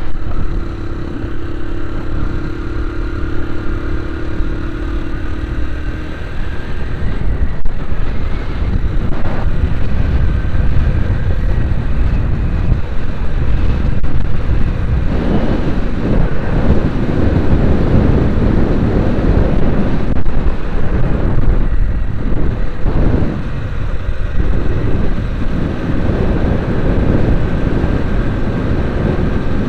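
A vehicle moving along a road: steady engine and road rumble with heavy low buffeting that grows stronger about a quarter of the way in and again around the middle.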